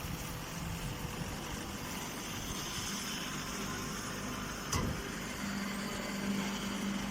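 Hay baling press machine running steadily, with a single sharp knock a little under five seconds in and a steady low hum joining shortly after.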